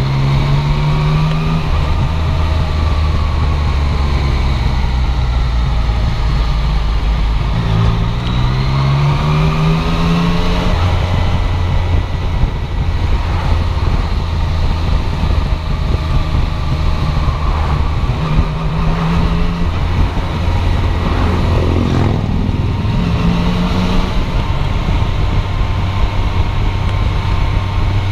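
Yamaha Tracer 900's three-cylinder engine under way, its revs climbing several times as it accelerates between steadier stretches, over a constant rush of wind and road noise.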